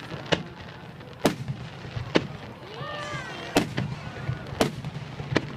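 Aerial fireworks bursting, six sharp bangs about a second apart, over the murmur of a watching crowd, with a voice calling out briefly around the middle.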